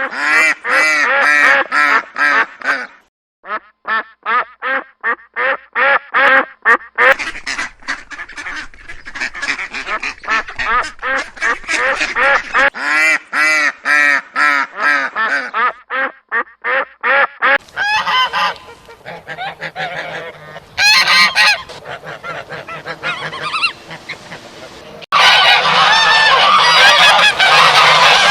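Domestic waterfowl calling: many short calls in quick succession, overlapping, becoming a dense, louder chorus of many birds near the end.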